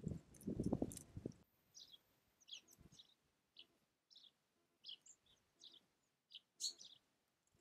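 Small songbirds at a feeder giving short, high chirps every half second or so. For the first second and a half, a dense close crackling and tapping, like feeding and pecking, cuts off abruptly.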